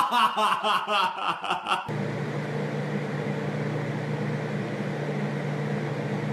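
Laughter in rapid, evenly pulsed bursts that cuts off abruptly about two seconds in, replaced by a steady low electrical or mechanical hum with a faint hiss.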